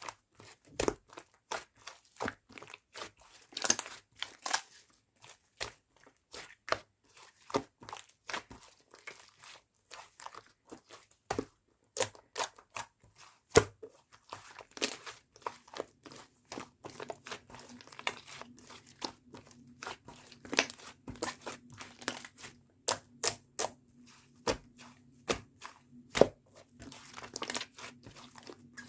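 Yogurt slime being squeezed and pressed by hand, giving a fast, irregular run of sticky clicks and small pops as air pockets burst.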